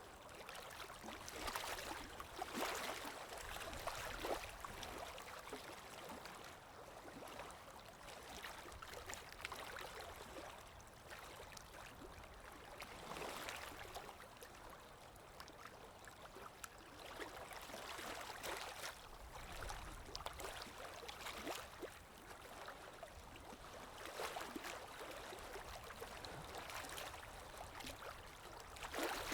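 Underwater ambience: a muffled rush of moving water that swells and fades every few seconds, with faint bubbling.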